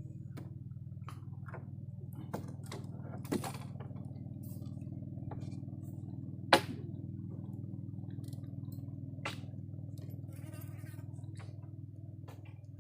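A steady low hum, with a few sharp clicks or knocks over it; the loudest click comes about six and a half seconds in.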